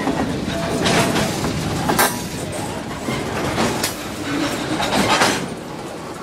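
A train passing close by: a steady, loud rumble of wheels on the rails, broken by sharp clanks every second or two.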